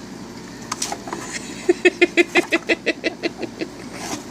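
Laughter: a quick run of about a dozen short 'ha' syllables, roughly six a second, fading toward the end. A few light taps come just before it.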